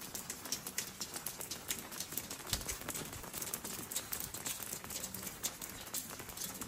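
Rain pattering and dripping on wet stone: an irregular run of sharp little taps, with footsteps on the wet paving.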